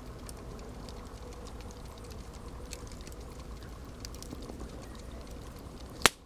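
Campfire crackling: scattered small snaps over a steady low rumble, with one loud sharp pop near the end.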